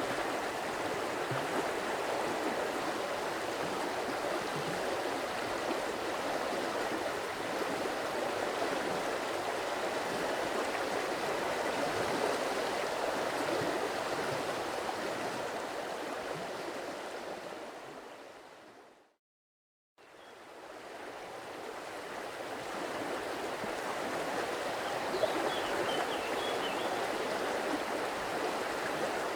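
Stream water rushing and splashing steadily. About two-thirds of the way in it fades out to complete silence for a second, then fades back in.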